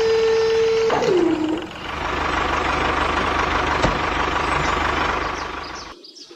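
Vehicle engine sound: a steady whine drops in pitch about a second in, then a rough, low-pulsing engine runs and fades out near the end.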